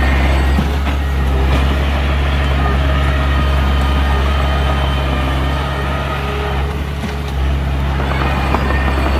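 Heavy diesel earthmoving machinery, dump truck or bulldozer engine, running steadily with a deep, even drone. It eases off slightly about seven seconds in, then picks up again.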